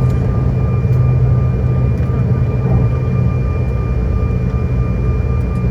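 Steady airliner cabin noise: a low rumble of the jet engines and airflow heard from inside the cabin, with a thin steady whine over it.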